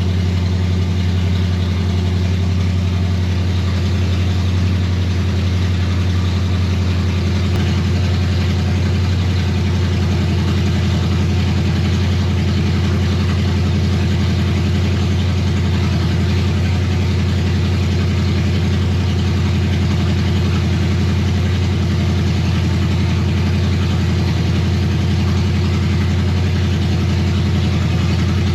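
327 cubic-inch small-block Chevy V8 running steadily through headers on its first start, holding an even speed with no revving.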